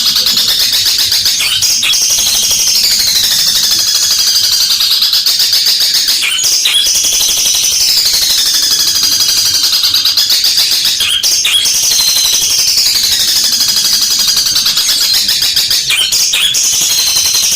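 Long-tailed shrike (cendet) singing loudly without a break: a fast, rattling, high-pitched chatter in repeated phrases that slide down in pitch every few seconds.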